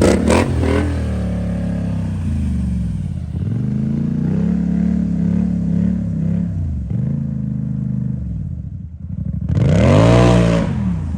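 An off-road vehicle's engine revving up and falling back again and again, with a burst of clattering knocks right at the start. The biggest rev, rising and falling, comes about ten seconds in.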